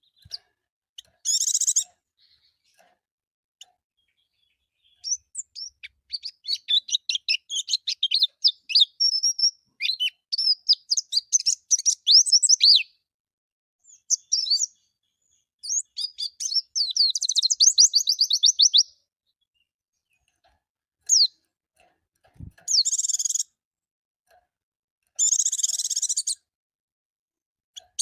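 White-eye (pleci) singing a rapid, high twittering song in long runs of quick notes, with short harsh chirps near the start and again near the end.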